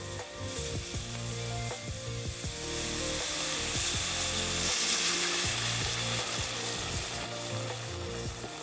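Food frying and sizzling, louder in the middle, with short scraping clicks and knocks, probably a utensil working the food. Background music with steady notes plays underneath.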